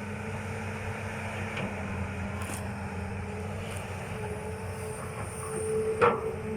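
Hitachi ZX200-5G hydraulic excavator's diesel engine running with a steady hum, with a sharp knock near the end.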